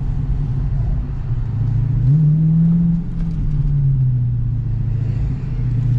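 Dodge Challenger Scat Pack's 6.4-litre HEMI V8 on its full stock exhaust, heard from inside the cabin with the windows up while driving. A steady low engine drone rises in pitch for about a second, starting about two seconds in, as the car accelerates, then settles back.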